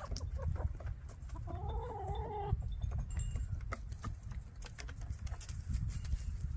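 Backyard hens clucking, with one longer drawn-out call about a second and a half in, among scattered short clicks.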